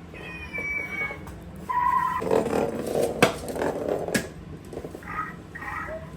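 Pet parrots whistling and chattering: a few short whistled notes, then a louder raspy stretch of chatter with two sharp clicks, then more short chirpy calls near the end.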